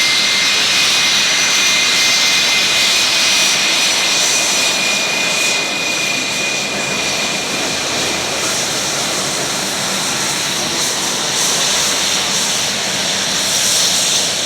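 Jet airliner engines running, a loud steady rush with a high whine on top of it.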